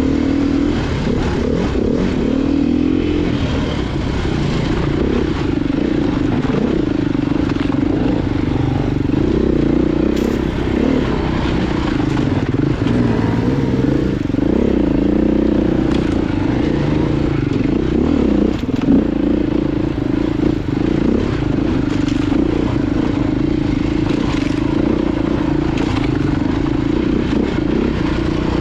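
Off-road motorcycle engine running while being ridden, its pitch wavering with the throttle, with a few sharp knocks and clatters scattered through.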